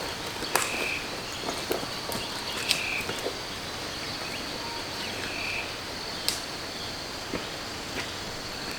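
Outdoor ambience: a steady high insect drone, with a short call from a frog or bird repeating three times about two to three seconds apart, and a few sharp clicks.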